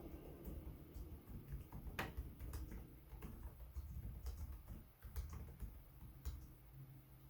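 Typing on a Lenovo Legion 5 Pro laptop keyboard: irregular, fairly quiet key clicks, the loudest about two seconds in.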